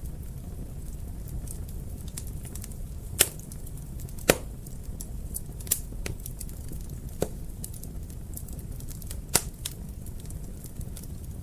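Wood fire burning in a fireplace: a steady low rumble of flames with scattered sharp pops and crackles, the loudest about three seconds in, just after four seconds and near nine seconds.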